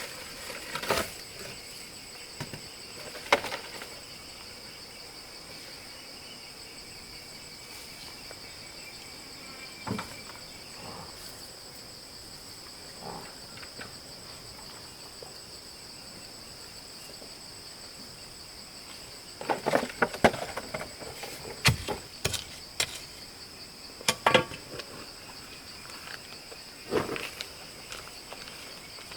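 A steady, high-pitched chorus of insects, crickets or cicadas, droning without a break. Over it come scattered sharp knocks and clatters, a quick run of them about twenty seconds in.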